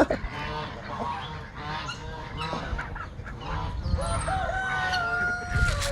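Mixed poultry flock calling: geese honking and chickens clucking. Near the end a rooster crows once, a single steady call lasting about two seconds.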